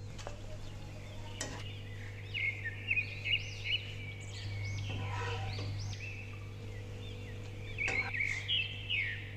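Small birds chirping in short repeated calls over a steady low hum, with a couple of sharp knocks, one about one and a half seconds in and one near the end.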